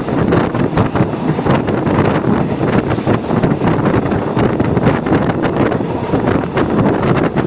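Passenger train running, heard from on board: a steady rumble with constant small clicks and rattles, and wind buffeting the microphone.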